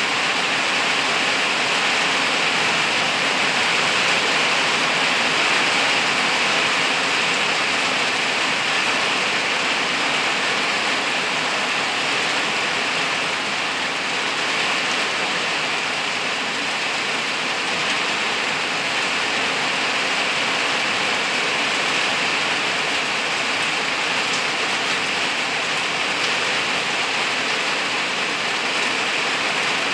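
Rain shower falling steadily on tree leaves and undergrowth, an even, unbroken wash of noise.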